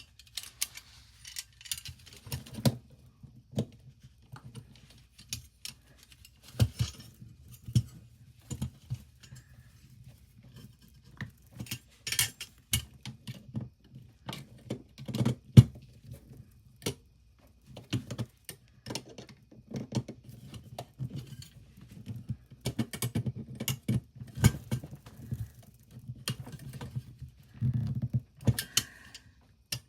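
Irregular clicks, taps and light rattles of small metal toy truck parts being handled, spread apart and fitted together.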